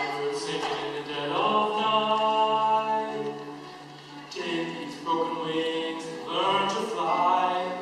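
Solo voice singing a slow song, with long held notes that change every second or two.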